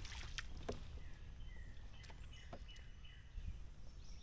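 Birds singing in the surrounding swamp woods: a run of short repeated chirps in the middle, over a low steady rumble, with a few light clicks.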